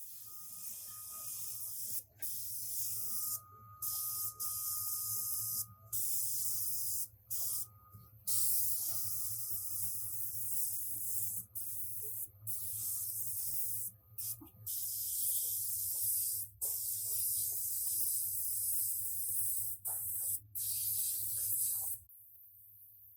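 Compressed-air spray gun hissing in repeated bursts as its trigger is pulled and released, over a steady low hum. The hissing stops near the end.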